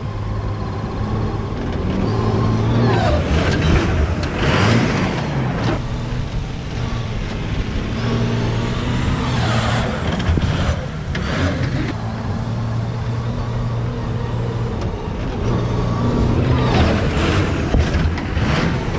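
Cummins diesel engine of a monster truck running as the truck is driven, rising and falling in pitch three times.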